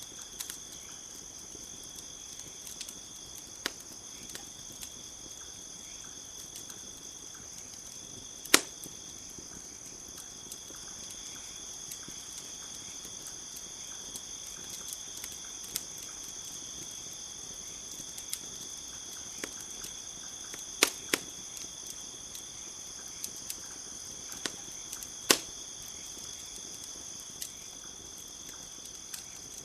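Campfire crackling, with scattered sharp pops and snaps, three of them much louder than the rest. Behind it, crickets chirr in a steady high drone.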